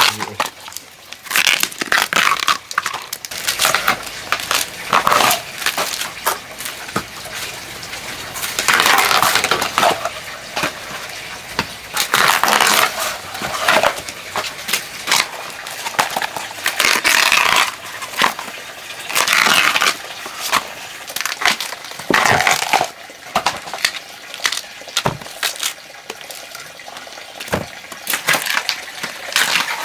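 Repeated crunching and crackling of dry plant material being crushed and torn by hand. Sharp clicks and snaps come throughout, with louder rustling tears lasting a second or two several times.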